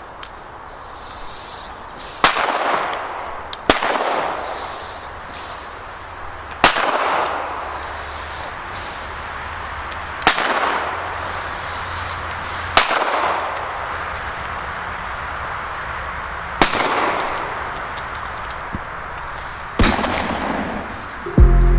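Funke A-Böller firecrackers going off one after another: seven sharp bangs a few seconds apart, each followed by an echoing tail. Music starts right at the end.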